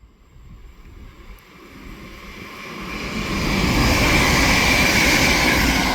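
Class 323 electric multiple unit running through the station: the rush and rumble of the train on the rails grows louder from about a second in, is loudest around four to five seconds, then eases slightly.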